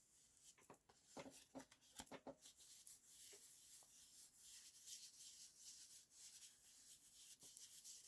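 Faint sounds of colouring over paper: a few light taps, then soft, steady scratching of the tool across the paper from about three seconds in.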